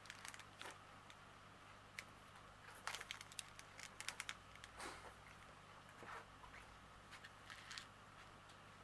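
Faint crinkling and clicking of small plastic bags of diamond painting drills being handled, in scattered short rustles over a near-silent room.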